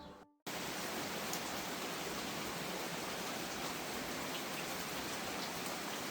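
Steady rain falling: an even hiss with faint scattered drop ticks. It starts suddenly about half a second in, after a brief silence.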